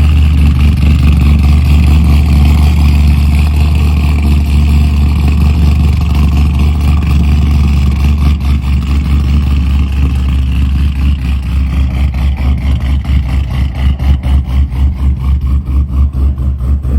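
Corvette C6 V8 with an aftermarket cam running through a loud exhaust: steady and full at first, then from about halfway settling into a choppy, loping idle that pulses a few times a second.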